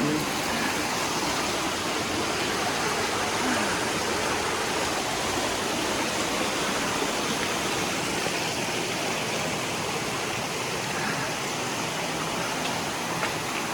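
Steady rushing of water from a stream and waterfall in a narrow gorge, an even hiss with no breaks.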